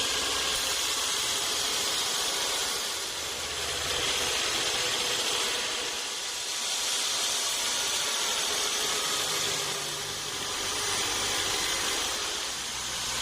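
Sawmill saw cutting a mahogany log: a steady high-pitched hiss that swells and eases every few seconds. A low hum joins about nine seconds in.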